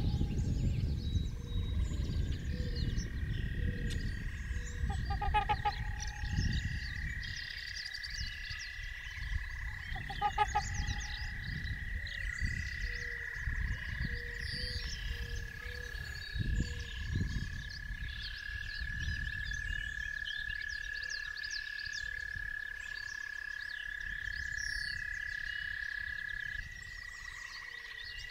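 Frogs calling: a long, steady, high trill that carries on for many seconds, broken by short bursts of pulsed croaks about five seconds apart, with small birds chirping faintly above.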